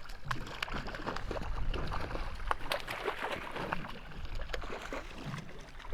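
Water lapping and sloshing against the hull of a small boat, with a low wind rumble and scattered sharp knocks and clicks.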